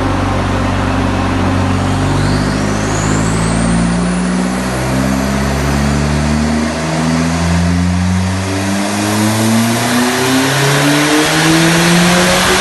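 Turbocharged 1.8-litre 20-valve four-cylinder engine of a tuned VW/Audi pulling under load on a chassis dynamometer. Its note climbs steadily in pitch, dipping briefly several times, and a thin high whistle rises over the first several seconds.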